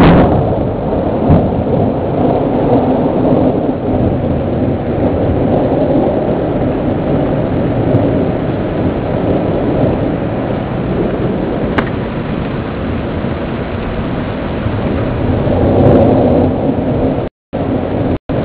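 Thunderstorm rumble: a loud, steady low roar of thunder and rain with no clear pitch, swelling briefly near the end.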